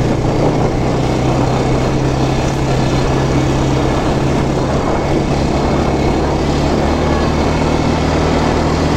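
Quad bike (ATV) engine running steadily under way, a constant low drone with no break or change in the revs.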